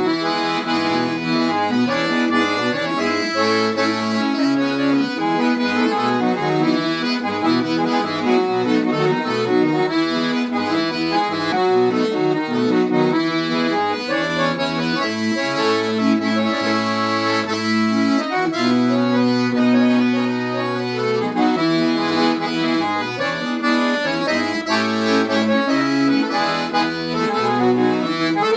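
Accordion music: a continuous melody of sustained, chord-like notes over a moving bass line, with no pause.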